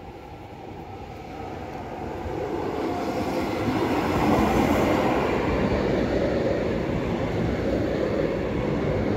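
Regional electric multiple unit train approaching and running along the platform. Its rumble of wheels on rails grows steadily louder over the first four seconds or so, then holds as the cars pass close by.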